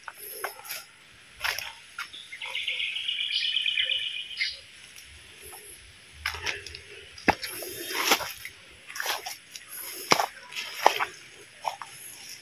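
A bird trilling rapidly for about two seconds, a couple of seconds in. Scattered footsteps and rustling of plants and mud along a stream bank follow.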